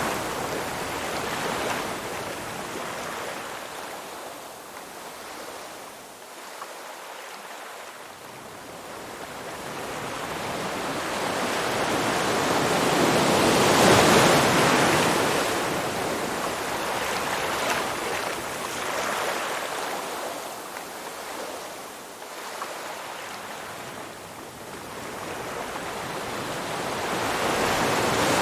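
Ocean surf: waves break and wash in as a steady rush of noise that swells and ebbs slowly, peaking twice, about fifteen seconds apart.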